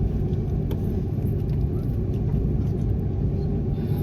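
Steady low rumble inside the cabin of an Airbus A330-300, the engines and airflow heard from a window seat, with no change in pitch or level.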